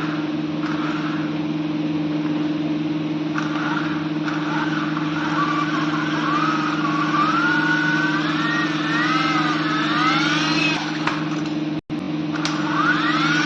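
Small electric RC toy helicopter in flight: its motors and rotors give a steady hum and whir, with a higher motor whine that rises and falls as the throttle changes. The sound cuts out for an instant near the end.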